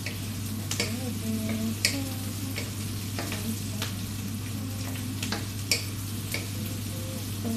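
Chicken frying and sizzling in a metal pot as it is stirred, a utensil clicking sharply against the pot about once or twice a second, over a steady low hum.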